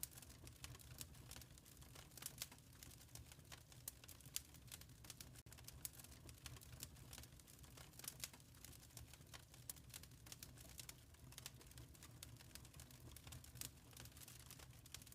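Quiet wood fire crackling in a fireplace: irregular sharp pops and snaps, several a second, over a steady low rumble.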